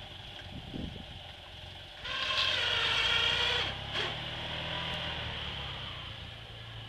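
Fiat 126p's small air-cooled two-cylinder engine running as the car ploughs snow with a front blade. About two seconds in a loud high-pitched whine joins for about a second and a half, then the engine settles back to a steadier low hum.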